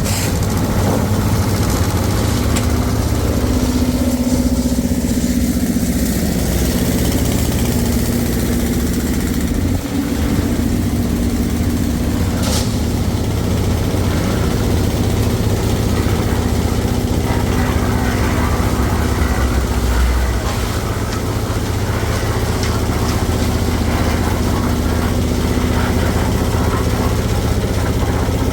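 An engine running steadily at an even, idle-like speed, with a low hum throughout and a brief dip about ten seconds in.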